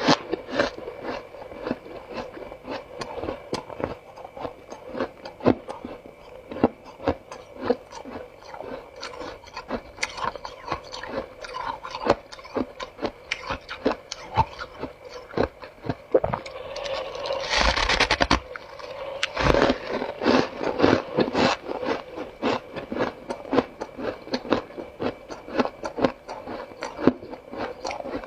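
Close-miked crunchy chewing of humidifier frost ice: a rapid run of sharp crunches, with a louder burst of crunching about seventeen seconds in.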